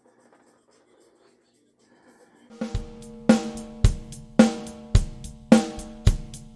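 Near silence, then about two and a half seconds in a drum kit starts a steady beat: bass drum and a Monolith fiberglass snare drum alternating about every half second, the snare ringing with a clear tone, over hi-hat or cymbal.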